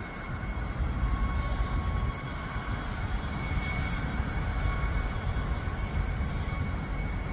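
Steady low rumble of a train running through the station, with a faint steady whine above it.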